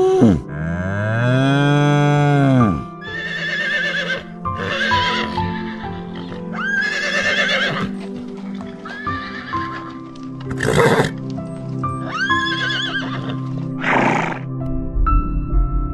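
A cow's long low moo dies away about 2.7 s in. A horse then neighs and whinnies repeatedly in high, wavering calls, with two short breathy snorts near the end, over soft background music that is left alone with piano notes for the last second or so.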